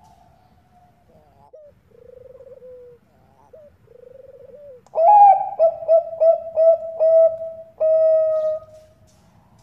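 Zebra doves (Bangkok-strain perkutut) cooing. Soft, trilling coos for the first few seconds, then about five seconds in a loud, rapid run of staccato coos that ends in one longer held note.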